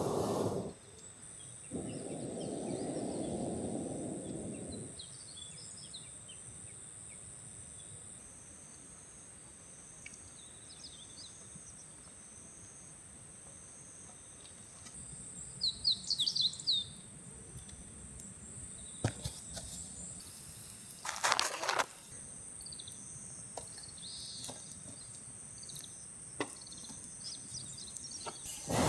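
Outdoor ambience with small birds chirping now and then, the clearest burst of chirps a little past halfway, over a steady high-pitched tone. A low rushing swell comes early, and a few sharp clicks come about two-thirds of the way through.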